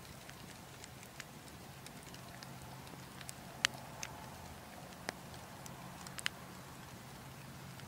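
Wood fire crackling in a fireplace: scattered sharp pops over a low, steady hiss and rumble. The loudest pop comes about three and a half seconds in.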